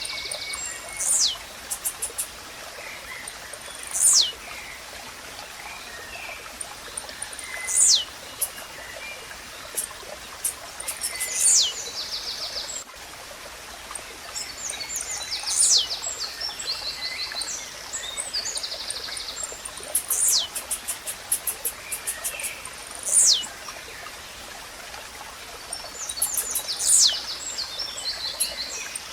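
Blue-black grassquit (tiziu) repeating its short, sharp song every few seconds, each note a quick downward sweep, with rapid clicky trills and other small birds and insects over a steady background hiss of nature ambience.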